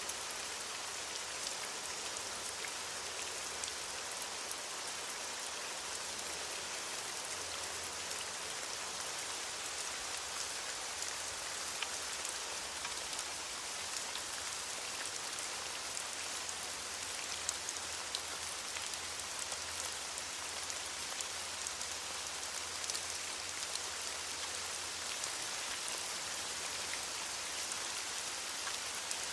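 Steady rain falling on leaves: a continuous hiss of rainfall with many small, distinct drop ticks scattered through it.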